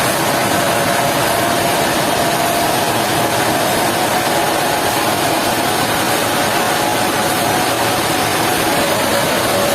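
Sawmill machinery running steadily: a loud, even mechanical noise with a faint steady whine and no pauses.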